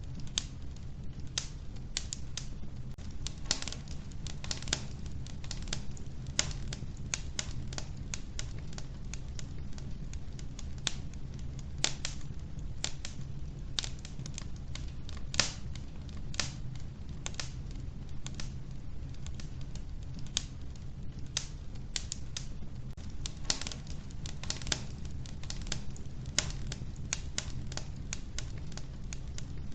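Wood fire crackling in a wood-burning stove: many sharp, irregular pops and snaps, several a second, over a steady low rumble of the flames.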